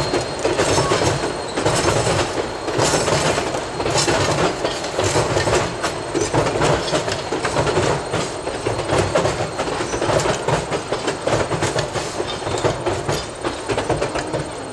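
Narrow-gauge train rolling along the track, its wheels clicking steadily over the rail joints in a continuous clickety-clack.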